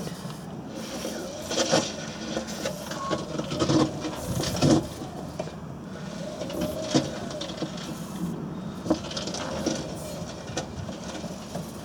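Whirlpool WWDC 7210/1 washing machine making its funny noises: a steady mechanical rumble broken by irregular knocks and clunks, about six louder ones spread through, the sign of a fault inside the machine.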